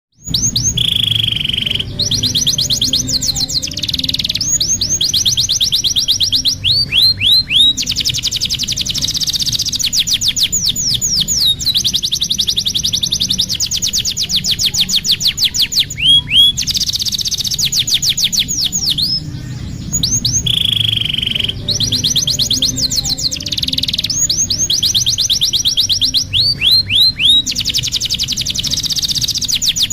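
Domestic canary singing a long, high-pitched song of fast rolling trills, rapid runs of repeated notes and quick downward-sweeping whistles, with only brief pauses; the same run of phrases comes round again about twenty seconds in. A faint low hum runs underneath.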